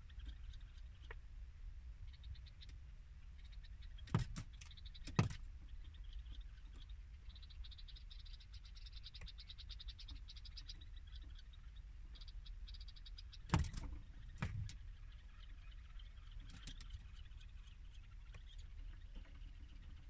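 White-eared bulbuls on a car's side mirror, pecking at their reflections: sharp taps on the mirror come in two pairs, each pair about a second apart. Between the pairs a faint, fast rattle of ticks lasts a few seconds, and a low hum runs underneath.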